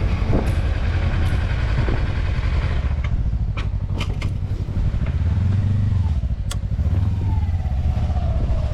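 Kawasaki Versys-X 300 motorcycle's parallel-twin engine running steadily while riding, with a few sharp clicks about three to six and a half seconds in.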